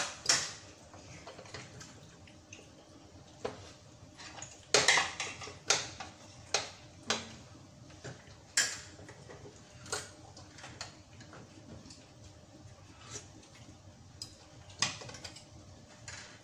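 Forks and spoons clinking and scraping against ceramic bowls and plates during a meal: irregular sharp clinks with a short ring, the loudest cluster about five seconds in.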